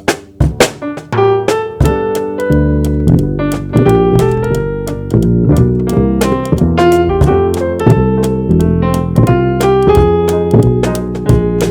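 Jazz trio playing: a few sharp drum hits in the first second, then keyboard chords over bass and drum kit.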